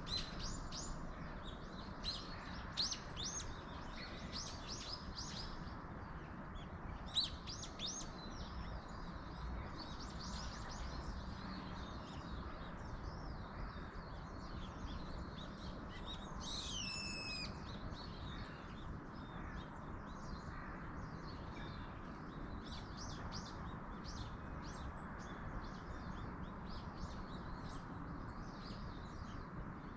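Several small birds chirping and calling over a steady background hiss of wind in the trees, with one louder call that falls in pitch about halfway through.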